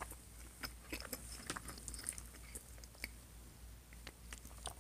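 A person chewing a mouthful of food close to the microphone: faint, irregular small clicks.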